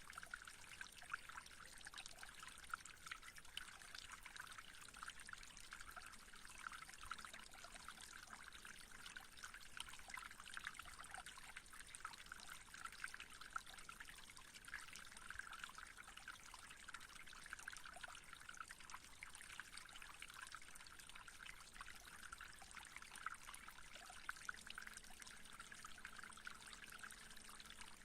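Faint, steady trickling water, like a small stream, with fine flickering splashes.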